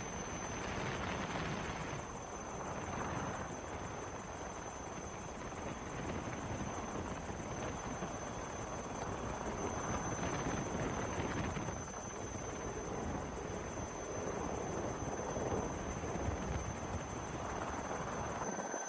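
Helicopter running steadily: a dense rushing rotor and engine noise with a fluttering low end and a thin, steady high whine.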